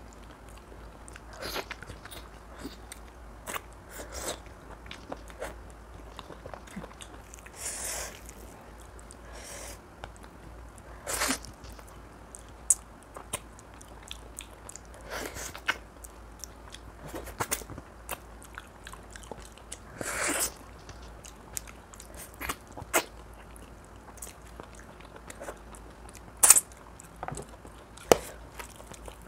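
Close-miked chewing and biting of oily mutton curry: wet mouth smacks and clicks at irregular intervals, a few much louder than the rest.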